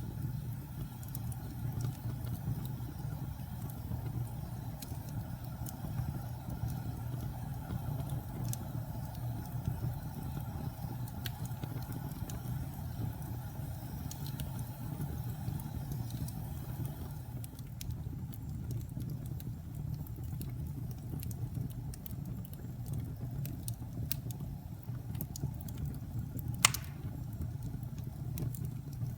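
Wood fire burning with a steady low rumble of flame and scattered small crackles, and one sharp, loud pop near the end.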